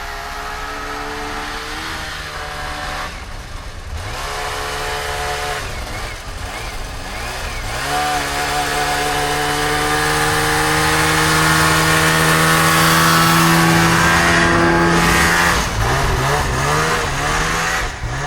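Snowmobile engine running and revving up and down, then one long climb in pitch over several seconds before the throttle comes off near the end.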